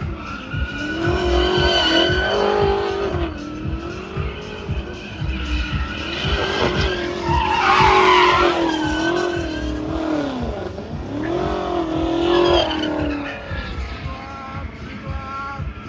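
Car engine revving up and down over and over, with tyres squealing and skidding. The loudest squeal comes about halfway through.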